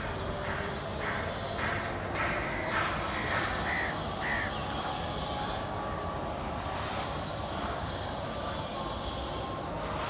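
A bird calling repeatedly, short caw-like calls about two a second, which stop about four and a half seconds in, over steady background noise.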